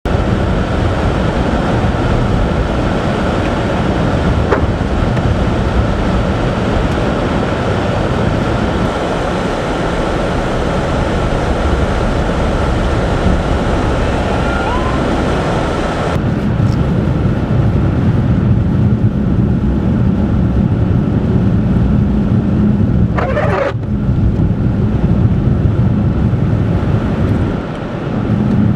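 A car driving at highway speed, heard from inside the cabin: steady tyre and road noise with engine hum. About halfway through the hiss drops away and the low hum gets stronger, and a brief whoosh passes near the end.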